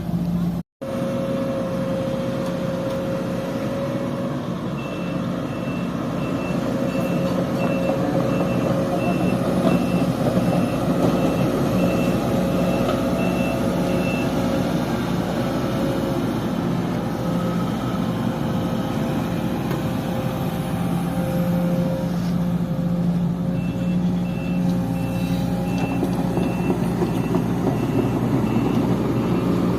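Sumitomo hydraulic excavator's diesel engine running steadily, with its warning alarm sounding a rapid series of even, high-pitched beeps for several seconds, stopping, then starting again near the end. The sound cuts out completely for a split second near the start.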